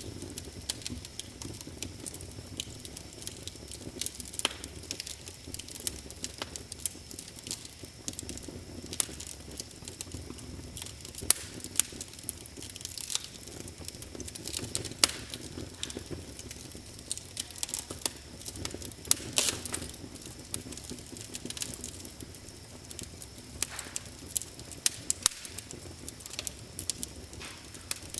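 Wood fire in a fireplace burning steadily with a low rumble and frequent irregular crackles and sharp pops.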